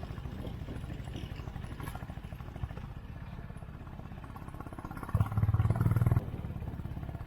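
Motorcycle engine running with a fast, even low pulsing, getting louder for about a second near the end.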